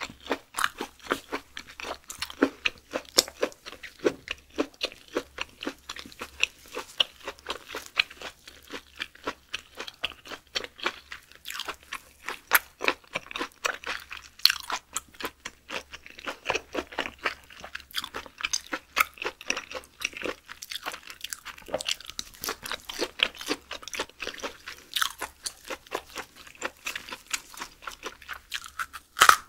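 Close-miked chewing of raw beef skirt steak: a steady run of short mouth clicks and bites, several each second.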